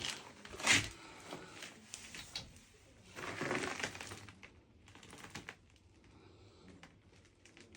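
Scattered light clicks, small knocks and rustling, with a louder burst near the start and a longer rustle around the middle.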